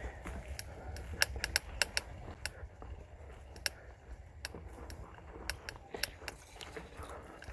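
Polygon Xtrada 5 mountain bike rattling over a rough trail: irregular sharp clicks and ticks, several a second, over a steady low rumble.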